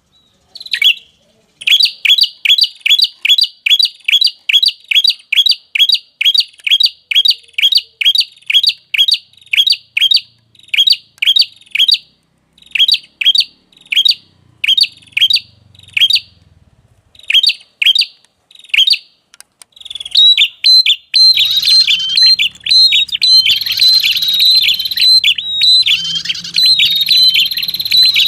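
Lure-call recording of a red-headed prenjak (a prinia) chirping: sharp, high chirps repeated about two to three times a second, sparser around the middle. From about twenty seconds in the calls become dense and overlapping, over a low hum.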